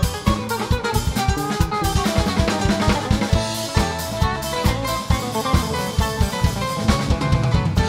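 A band playing an instrumental passage: a drum kit with kick, snare and rimshots keeps a driving beat under sustained pitched instruments.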